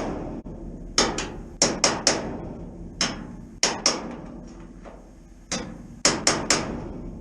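Hammer driving a drift against the steel sheet-metal flange of a classic Mini's quarter panel, knocking it back against the B pillar: about a dozen sharp metallic strikes in quick groups of two or three, each ringing briefly.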